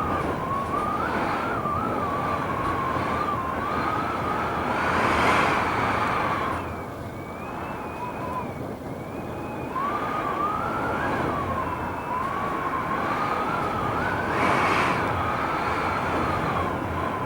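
Strong gusting wind whistling: a thin high tone that wanders irregularly up and down over a steady rush of noise, swelling louder with gusts about five seconds in and again near the end.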